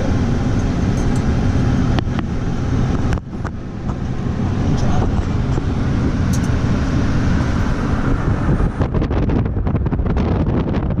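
A vehicle running: a steady low rumble with occasional knocks and a cluster of clicks near the end.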